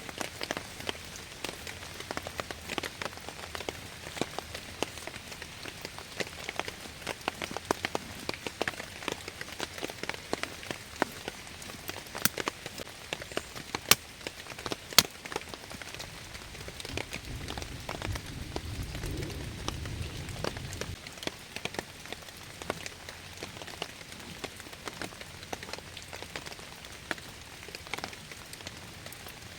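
Rain falling steadily, with many sharp drips and taps close by. A low rumble rises for a few seconds about two-thirds of the way through.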